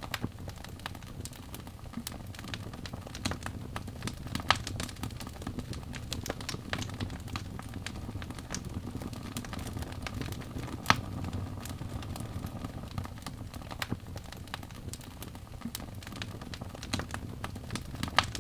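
Wood fire burning in a fireplace: a steady low rumble of flames with frequent irregular crackles and pops from the logs, two sharper pops standing out, one about four and a half seconds in and one near eleven seconds.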